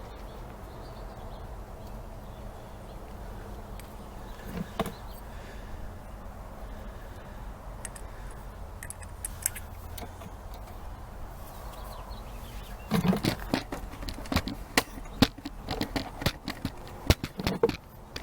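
Small parts and tools being handled on a workbench: a few isolated clicks, then a dense run of sharp clicks, knocks and rattles over the last five seconds, above a low steady hum.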